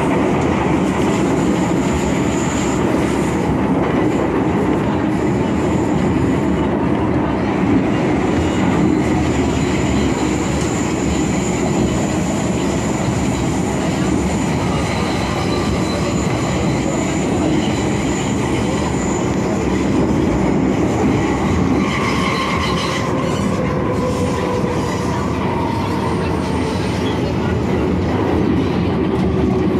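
MTR Kwun Tong Line M-Train running on the track, heard on board: a steady rumble of wheels on rail with a thin high whine over it. In the last third, several tones slowly fall in pitch.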